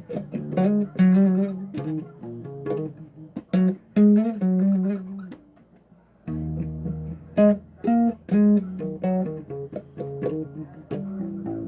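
Bass guitar played in short phrases of plucked notes, with a brief pause about halfway through and a held low note after it.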